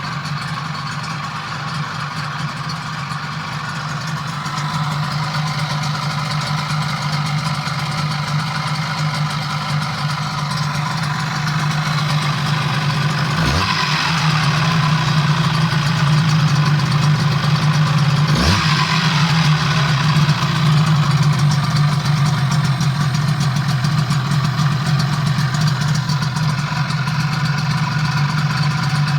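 Yamaha 12A engine running steadily on its first run after a major overhaul, getting gradually louder over the first half. Two quick sweeps in pitch come about halfway through.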